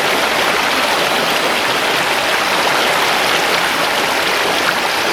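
Mountain river flowing over stones: a steady, even rushing of water.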